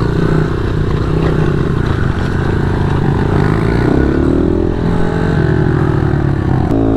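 Small single-cylinder pit bike engine running under way, its note stepping up and down as the throttle opens and closes, with a shift in pitch near the end.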